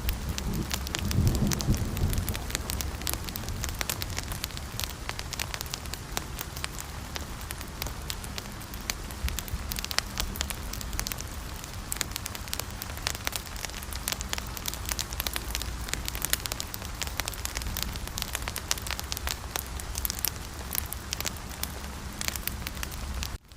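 A wood fire crackling, with a dense, irregular stream of sharp pops and snaps over a low rumble. The sound is a little fuller for the first couple of seconds and drops out briefly near the end.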